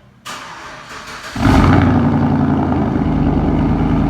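A vehicle engine being started: a short spell of cranking, then the engine catches about a second and a half in and settles into a steady, even idle.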